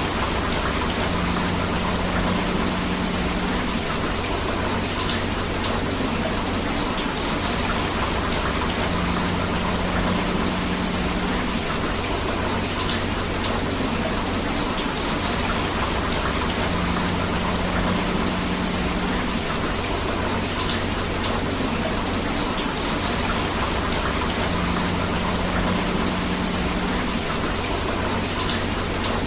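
Steady rain mixed with flowing river water, an even, unbroken hiss.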